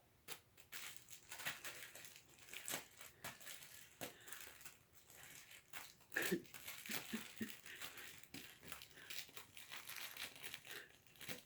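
Kitten playing among crinkly cat toys: a run of irregular rustles, crinkles and soft clicks.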